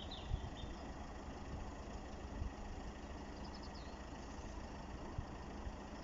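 Steady low outdoor rumble with a few soft low knocks, and a small bird chirping briefly right at the start and again about three and a half seconds in.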